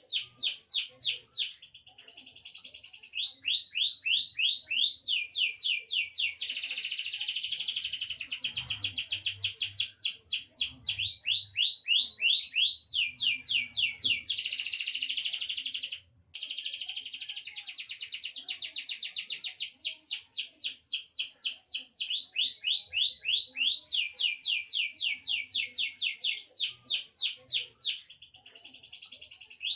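Young grey domestic canary, about eight months old, singing a long rolling song of rapid trills. Each run of fast repeated notes lasts a few seconds before switching to another, with one short break about halfway through.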